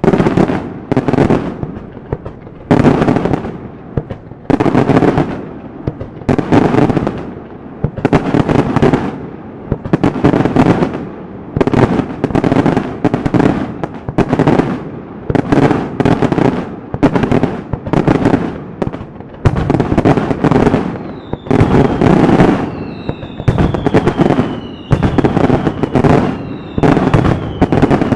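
Daytime aerial fireworks: a rapid, uneven run of loud shell bursts, more than one bang a second, each trailing off in echo. Near the end, repeated falling whistles join the bangs, about one a second.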